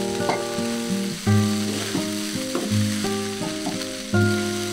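Vermicelli and vegetables sizzling in a metal kadai as a spatula stirs them, with a few scraping clicks, under background music of sustained melodic notes that change every half second or so.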